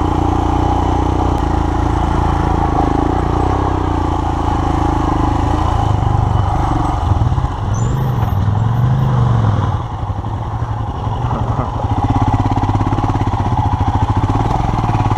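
2019 Royal Enfield Himalayan's 411 cc air-cooled single-cylinder engine running under load, heard from the rider's seat. The engine note rises and falls a little past the middle, eases off briefly about ten seconds in, then pulls steadily again.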